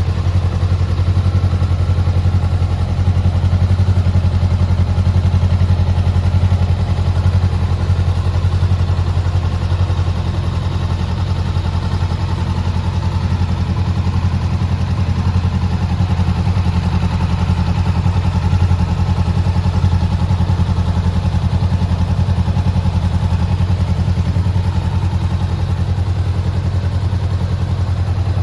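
Honda CBR400R's parallel-twin engine idling steadily.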